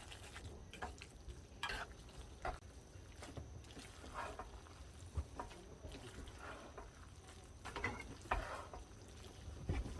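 Objects being handled: scattered light clicks and knocks with a few short scrapes and rustles, faint over a low steady background.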